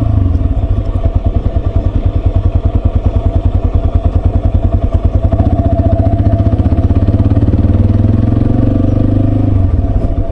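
Yamaha Serow 250's air-cooled single-cylinder engine running at steady low revs, with an even, fast pulsing beat. It cuts off suddenly near the end.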